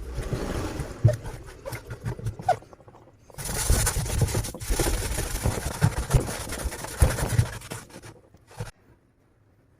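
Scrubbing and scraping while a washing machine's wash tub is being cleaned, with some low knocks. It goes on for about three seconds, picks up louder for about five seconds, then stops near the end.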